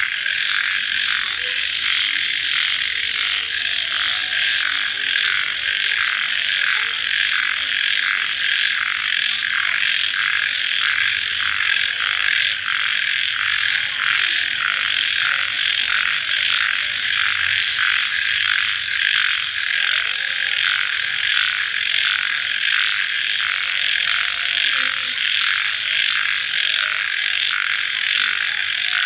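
Night chorus of many crickets chirping together in a dense, rapid, steady pulsing.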